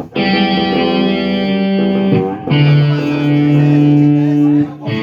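Electric guitar playing held chords through an effects unit, each chord ringing for about two seconds before a brief break and the next chord.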